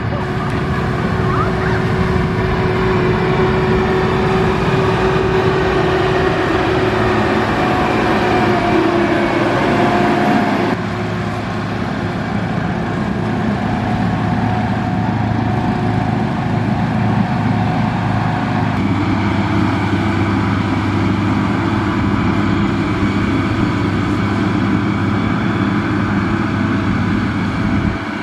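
Diesel engine of a SANY motor grader running steadily at working revs, its sound changing abruptly twice, about eleven and nineteen seconds in.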